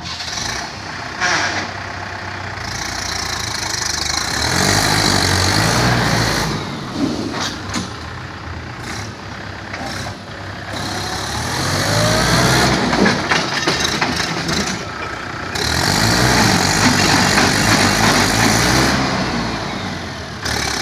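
Swaraj 843 XM tractor's three-cylinder diesel engine running under way, rising and falling in load, with three long swells in loudness.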